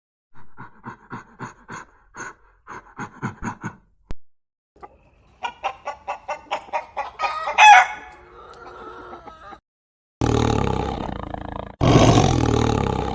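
Chickens clucking in quick, short notes, building to a loud cackle about eight seconds in. Then come two long, loud, low calls from a larger animal.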